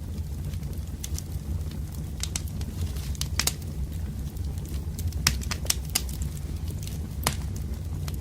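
Wood campfire crackling, with irregular sharp pops from the burning logs over a steady low rumble of the flames.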